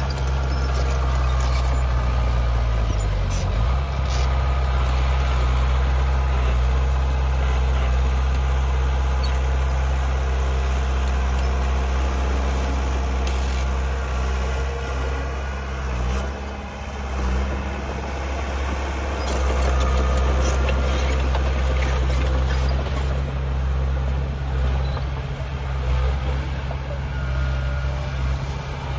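Diesel engines of heavy earthmoving machinery running steadily under load. The engine note drops about three seconds in and dips again briefly past the middle.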